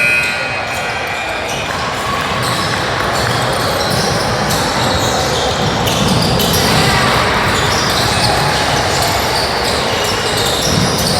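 Youth basketball game in a gymnasium: a ball bouncing on the court amid continuous spectators' and players' voices, echoing in the large hall.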